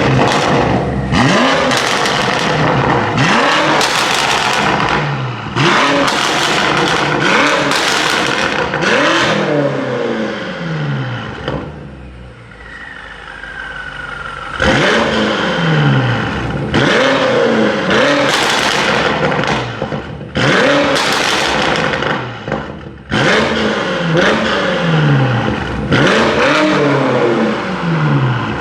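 BMW M5 F90's twin-turbo V8 through an Akrapovic titanium exhaust with HJS downpipes, revving and accelerating in short repeated pulls, the pitch rising and dropping about once a second. There is a quieter stretch near the middle.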